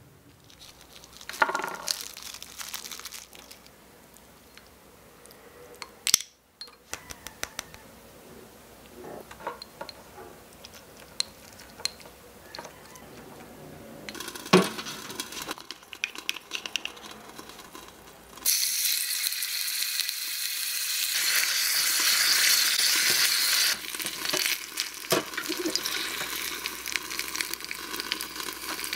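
Light clicks and scrapes of tiny utensils against small dishes, then, about two-thirds of the way in, a sudden loud sizzling of food frying in a miniature saucepan over a small gas flame. The sizzle eases a few seconds later but keeps going.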